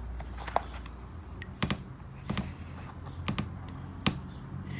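About five light clicks and taps of small rough opal pieces being handled and set down on a hard surface, over a faint steady low hum.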